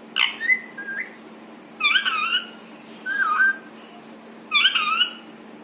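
Indian ringneck parrot giving about five short, shrill calls or chattered syllables, each under a second, with brief gaps between them.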